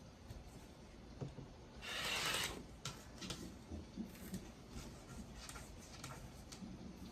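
Quilting fabric being cut and handled: one longer scraping cutting stroke about two seconds in, followed by light rustles and small clicks as the cut pieces are moved.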